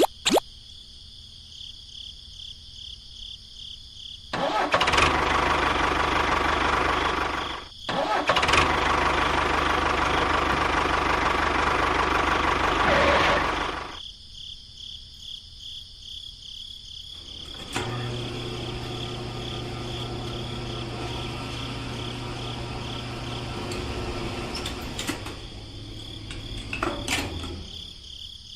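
A small engine or motor running in two spells. The first spell, about four seconds in, is loud, rough and noisy, with a short break in the middle. After a pause it runs again more steadily from about eighteen seconds in, with a steady low hum.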